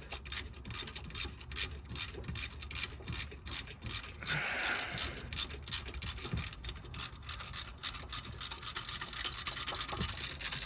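Ratchet wrench clicking in quick, repeated strokes as a bolt is turned, as when unbolting the alternator.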